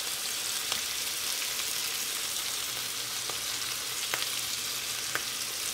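Chicken breasts sizzling in butter in a cast-iron skillet over medium-high heat: a steady frying hiss with a few small pops.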